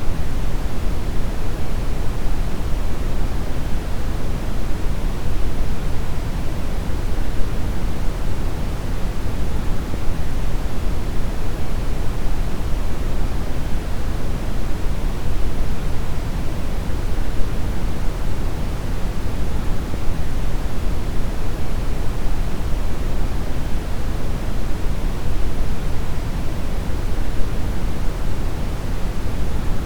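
Steady deep brown noise: an even, unchanging rumbling hiss weighted toward the low end.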